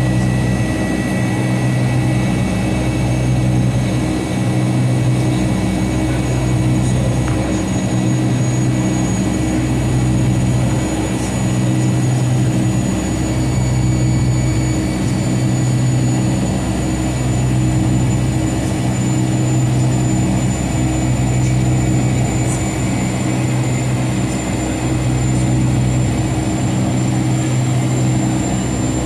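Steady machinery drone heard inside the cabin of a Boeing 757-200, with a low hum that swells and fades about every two seconds and a thin high whine above it.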